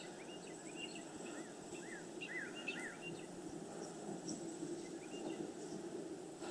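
A small bird chirping a quick series of short, high notes through the first three seconds and once more briefly near the end, over a faint steady hum of honey bees flying around the open hive.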